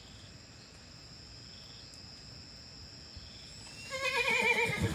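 Steady high-pitched chorus of night insects, crickets among them. About four seconds in, a horse whinnies loudly for about a second with a shaky, wavering pitch.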